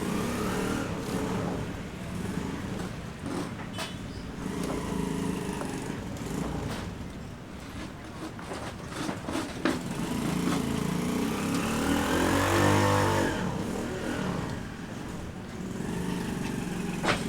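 Motor vehicles passing one after another, their engines rising and fading. The loudest passes about twelve seconds in, its pitch dropping as it goes by. A few sharp knocks come in between.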